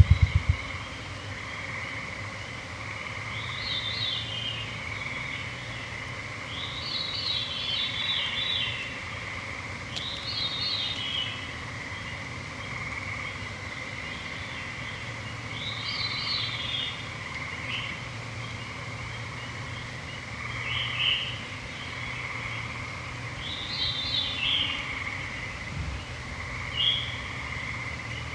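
Evening forest chorus: songbirds sing short phrases every two to four seconds over a steady high-pitched drone. A low throbbing stops in the first half second.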